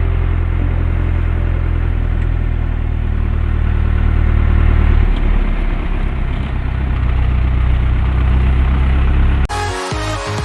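Storm wind and heavy rain: a steady noise with a heavy low rumble from wind buffeting the microphone. About nine and a half seconds in it cuts off suddenly and electronic music starts.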